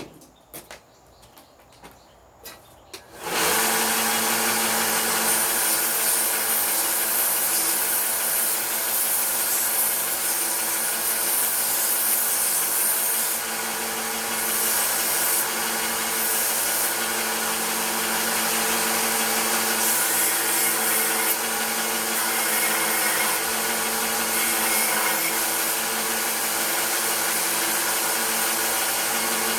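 A few faint clicks, then about three seconds in an electric power tool starts and runs steadily with a hum and a hiss, cleaning up an old meat cleaver's handle.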